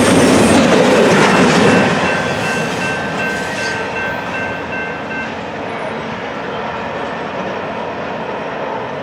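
A train rolling past on the main line, with the clatter of its cars loudest for the first two seconds. It then falls to a lower, steadier rumble as it moves away. A pair of high steady tones sounds from about one to five seconds in.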